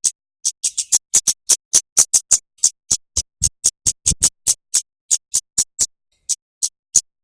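A songbird repeating short, sharp, very high chip notes, about four a second, in a fast continuous run.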